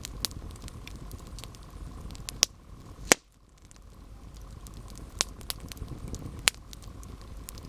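Campfire crackling, with a steady low rumble of burning wood and scattered sharp pops, four of them loud. After a loud pop about three seconds in, the rumble briefly drops away and then builds back up.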